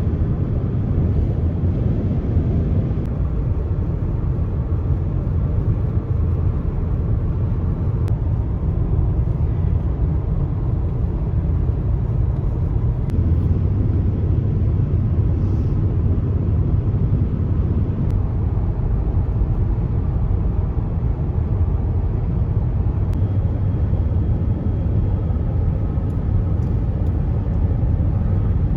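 Steady low rumble of a car on the move, heard from inside: road and engine noise with no change in pace.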